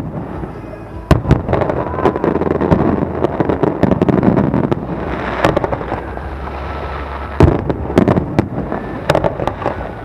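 Aerial fireworks display: shells bursting in repeated sharp bangs over a dense crackle, with one of the loudest bangs about seven and a half seconds in.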